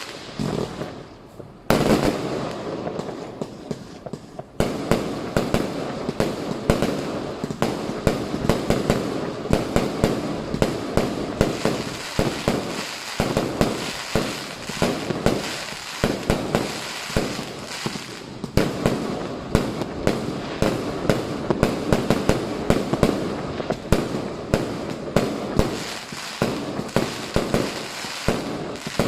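Fireworks and firecrackers going off in a dense, near-continuous barrage of overlapping bangs and booms, after a brief lull about a second in.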